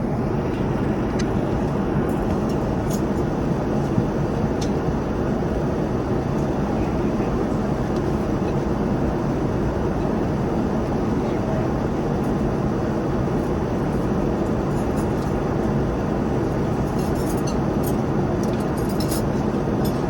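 Steady rushing cabin noise of a Boeing 787 airliner in flight, with a few faint clicks of cutlery on dishes during the meal.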